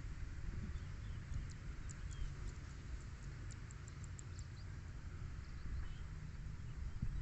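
Small birds chirping faintly in short, high, rapid notes for a few seconds, over a steady low rumble.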